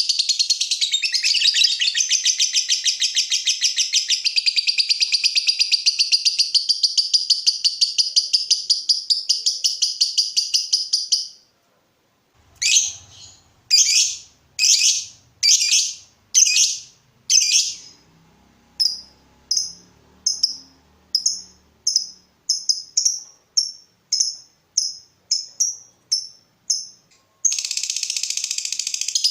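Lovebird calling: a long, very rapid chattering trill (the 'ngekek') for about eleven seconds. After a short break come separate sharp chirps, first about one a second, then quicker at about two a second. The rapid chatter starts again near the end.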